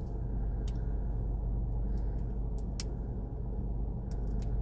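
Steady low hum of a parked car running, with several short sharp clicks and crackles of plastic packaging being picked at while working a toy capsule's tear strip.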